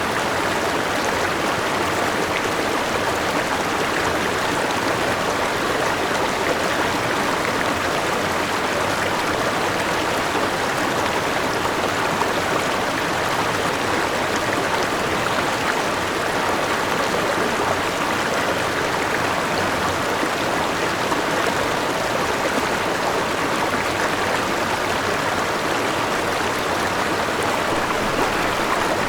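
River water rushing steadily, an even, unbroken flowing sound with no pauses or single splashes.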